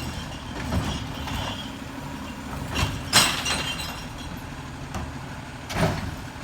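Recycling truck's engine running with a steady low rumble, with a sharp, loud noisy burst about three seconds in and a shorter one near the end.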